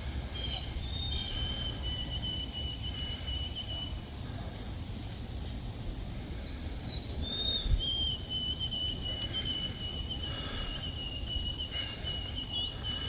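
Birds singing in long, high, even trills over a steady low rumble, with one short low thump about eight seconds in.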